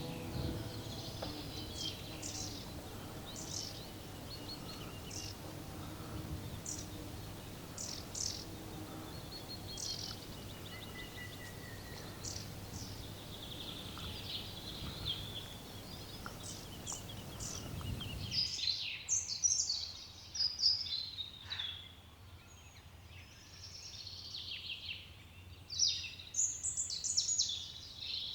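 Several songbirds chirping and trilling over a steady background noise. About eighteen seconds in, the background noise drops away at once, and louder, busier birdsong follows.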